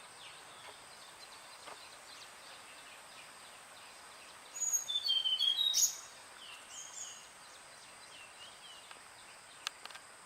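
Wild songbirds calling over a steady high background hiss: faint scattered chirps, then a loud run of short, clear whistled notes about four and a half seconds in, lasting just over a second, followed by softer chirps.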